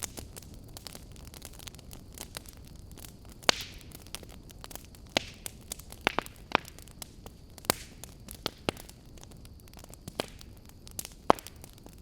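Wood fire burning in a fireplace: a low steady rumble and hiss with irregular sharp crackles and pops, the loudest about three and a half seconds in and near the end, a few followed by a short hiss.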